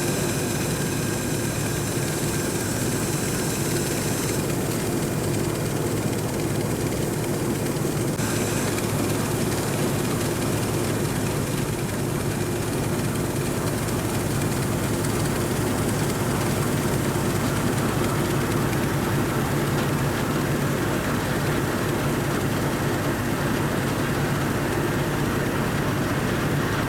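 Sakpattana KM-D#1 rice combine harvester running steadily while harvesting: a constant engine drone with the machinery running under it, and a high-pitched whine that stops about four seconds in.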